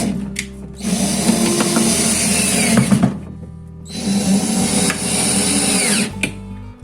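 Power drill-driver running in two spells of about two seconds each, its pitch dropping as each one stops, over background music.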